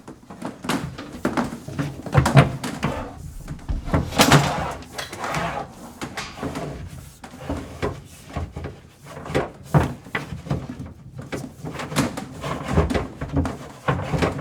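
Irregular knocks, clunks and scraping of PEX tubing and tools being handled and pushed through holes drilled in the wood framing.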